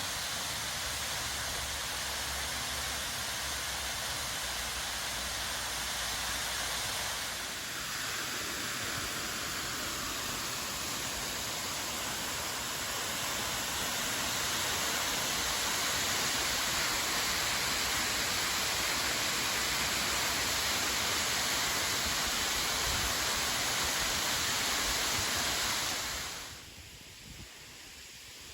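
Steady rush of Felker's Falls, a waterfall, heard as an even hiss of falling water. It grows a little louder around the middle and drops away sharply near the end.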